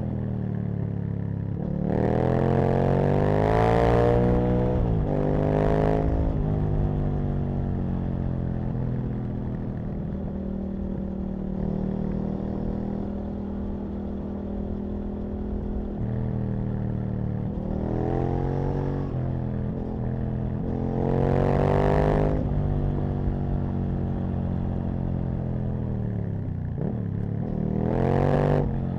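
Aprilia RSV Mille's 998 cc V-twin engine accelerating hard in several bursts, its pitch climbing and dropping back with each gear change, with steadier running and deceleration in between.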